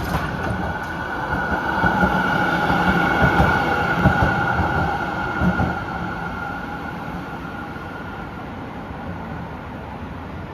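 Melbourne tram running past close by, a steady high-pitched whine over a low rumble, loudest in the first half and fading away as it slows to a stop.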